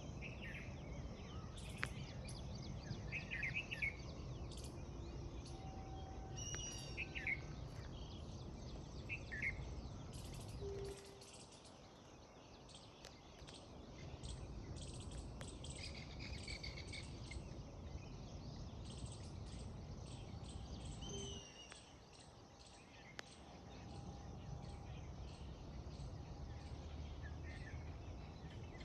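Outdoor ambience of birds chirping in short scattered calls over insect clicking, with a steady low rumble underneath that drops out twice.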